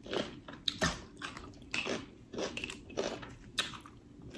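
Close-miked mouth sounds of a person chewing and smacking a mouthful of snow crab, short wet smacks about twice a second.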